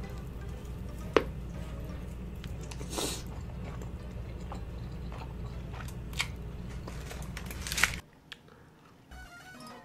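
Close-miked eating: biting and chewing with wet mouth clicks and smacks, over a steady low hum. The hum and the mouth sounds cut off about 8 seconds in, leaving a much quieter stretch.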